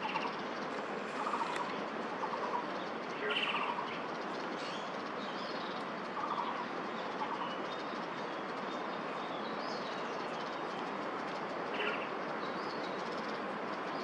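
Steady rushing background noise with several short bird calls scattered over it, the strongest about three and a half seconds in.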